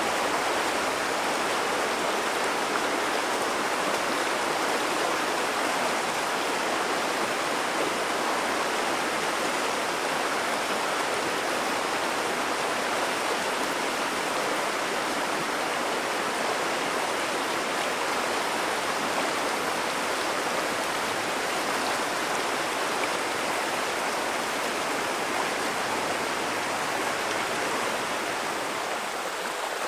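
Babbling of a clear mountain river, a steady, even rush of water.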